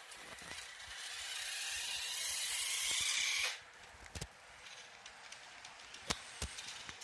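A radio-controlled off-road car's motor and drivetrain run, whirring louder over about three seconds, then cut off suddenly. A few sharp knocks follow.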